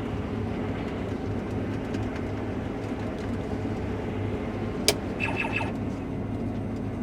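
Case IH combine running steadily, a low engine drone with an even hum. About five seconds in, a sharp click, then a brief high beep.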